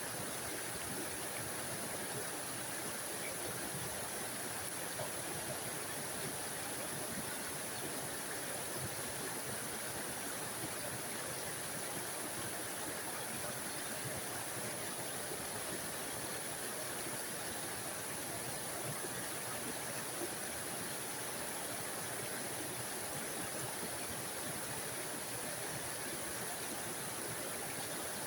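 A small forest waterfall, water spilling steadily over rocks in an unbroken rush.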